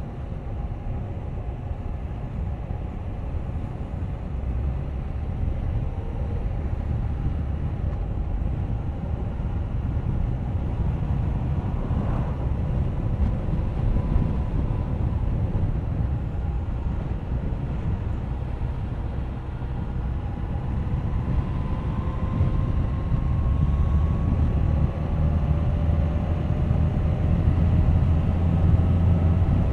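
Suzuki GSX1250FA inline-four motorcycle engine running on the road, with wind rushing over the camera microphone. Past the middle the engine note climbs slowly in pitch and grows louder as the bike picks up speed.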